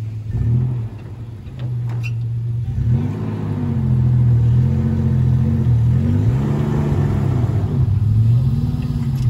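4WD engines working under load in soft sand during a strap recovery, the revs rising and falling over and over as one vehicle tows a bogged 4WD up the sandy track; the revving grows louder about three seconds in.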